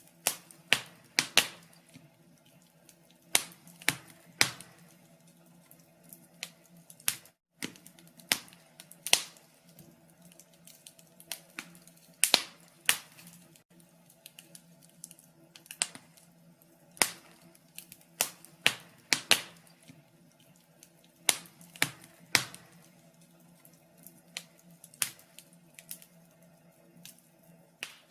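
Wood fire in a fireplace crackling: irregular sharp pops and snaps, some louder than others, over a faint steady low hum. The sound cuts out for a split second about seven seconds in.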